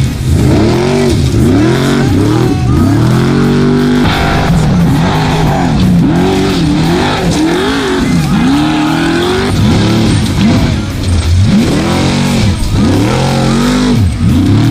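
Trophy truck engine revving hard and repeatedly, its pitch climbing and dropping about once a second as the throttle is worked.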